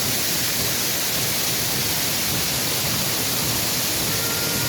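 Steady, continuous rush of a waterfall.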